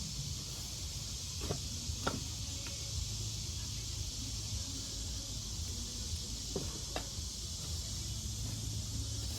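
Steady low hum of a motor running, with a steady high hiss over it and a few light clicks scattered through.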